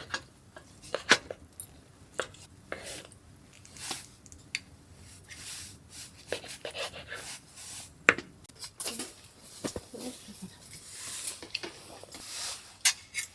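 Irregular clinks and knocks of cookware and utensils being handled, with scuffing and rustling in between.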